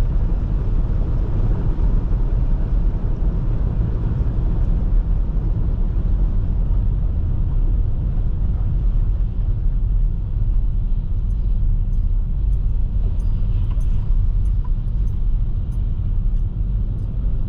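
Car driving on a rural road, heard from inside the cabin: a steady low road and engine rumble. Faint scattered ticks join in during the second half.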